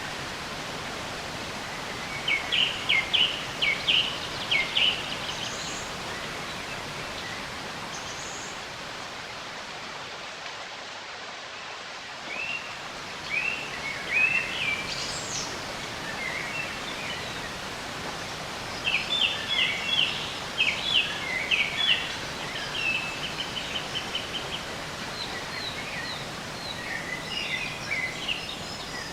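Birds singing in short bursts of quick repeated chirping notes, over a steady even background noise.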